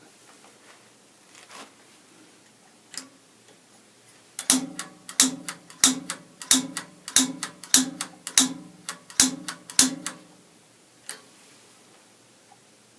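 Piezo igniter striker on a gas water heater's pilot control, pressed again and again: a run of about ten sharp clicks, roughly three every two seconds, with single clicks before and after. These are repeated sparking attempts to light the pilot.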